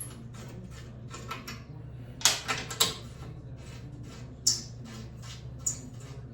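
Metal hand tools clicking and clinking against motorcycle exhaust hardware in a few scattered sharp strikes, the loudest cluster a couple of seconds in, over a steady low hum.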